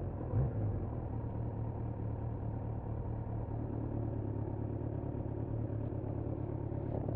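Kawasaki Z900's inline-four engine running steadily at a low, even speed, with a brief blip about half a second in.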